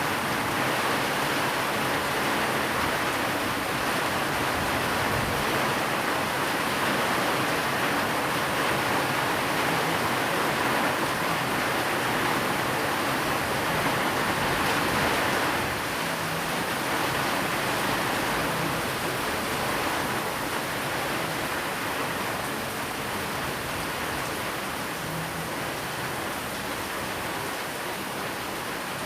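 Steady rain falling as a dense, even hiss, easing slightly a little past halfway.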